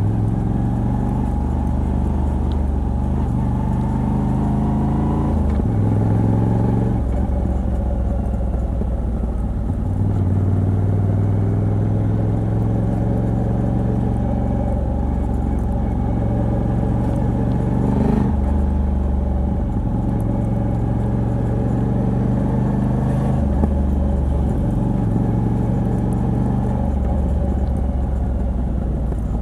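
Moto Guzzi V85TT's air-cooled transverse V-twin with a decat pipe, running under way. The revs climb and drop back several times as the gears are changed.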